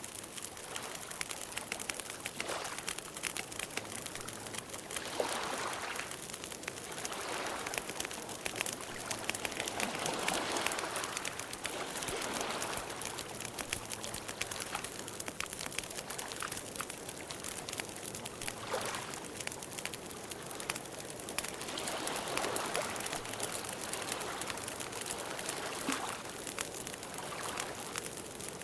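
Campfire burning: a steady hiss of flames with many small sharp crackles and pops throughout, and slow soft swells as the fire flares.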